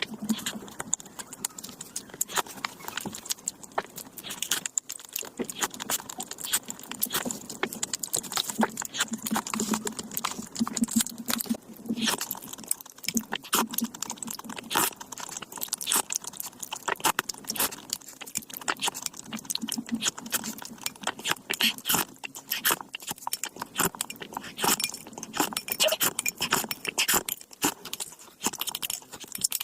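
Metal cooking utensils clattering: a dense, irregular run of quick clicks and clinks.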